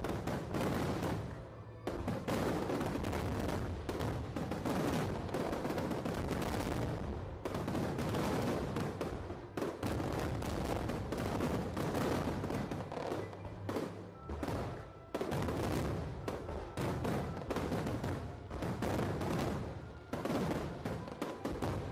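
Aerial fireworks going off in rapid, continuous volleys of bangs and crackles, with short lulls about two, ten, fifteen and twenty seconds in.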